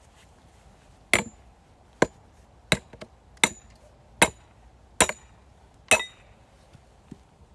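Seven sharp metal strikes, a little under one a second, several of them with a brief high ring: blows of a striking tool while splitting firewood.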